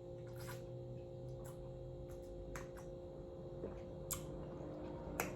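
A person drinking peach sparkling soda: faint gulps or sips, about one a second, over a steady low electrical hum.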